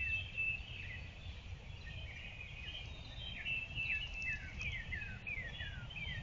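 Several wild birds singing and calling, a chorus of short notes that each slide downward in pitch and repeat over and over, with a few higher held notes. A steady low rumble runs underneath.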